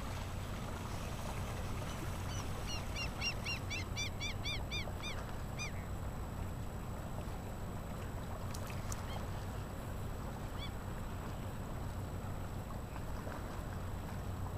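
A bird calling in a quick run of about a dozen short, arched notes, about three or four a second, lasting a few seconds; then two single calls later on, over a steady outdoor rush.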